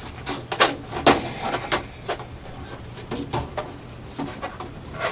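Plastic clicks and clacks of a Nerf Mega DoubleBreach blaster being handled as darts are loaded into its breech, a handful of sharp clicks spread through the few seconds.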